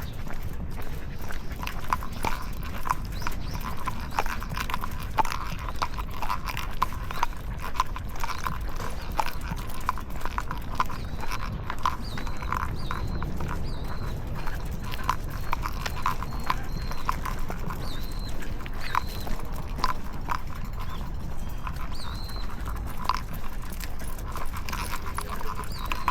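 Walking steps on pavement: shoes and two dogs' paws and claws clicking irregularly, about two or three a second, over a low street rumble. Faint short high chirps come in about halfway through.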